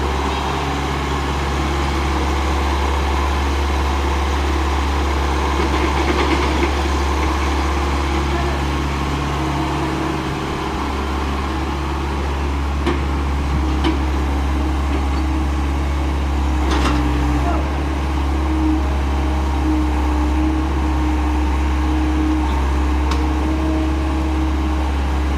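Heavy diesel engine running steadily at a construction site, with a few sharp knocks and people's voices over it.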